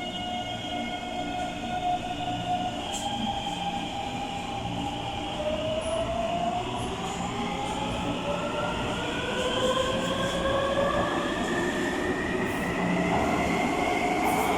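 Taipei Metro Bannan Line electric train pulling out of a station: the motor whine holds a few steady tones, then from about five seconds in climbs steadily in pitch as the train speeds up, getting louder.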